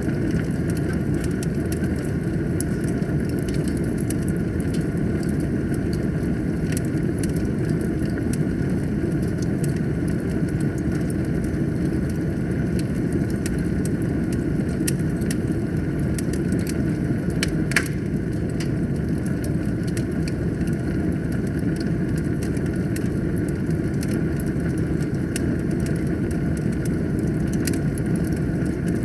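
Wood fire burning in a fireplace: a steady low roar of flame with scattered crackles and pops, one sharper pop a little past halfway.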